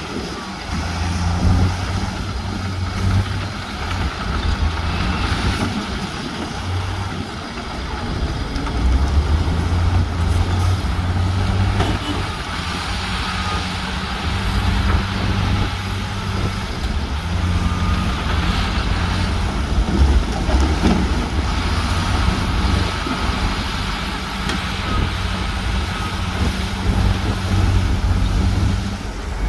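Heavy diesel engines of earthmoving machinery (bulldozers and dump trucks) running under load, a deep steady drone that swells and eases as the machines work.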